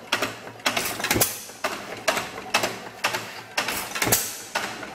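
2-horsepower Ottawa stationary gas engine running slowly, a sharp clattering knock about twice a second. Its magneto is weak and its timing is off.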